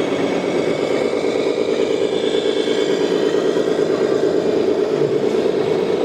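Steady running sound of an RC model truck's simulated engine, heard as a constant rapid engine note.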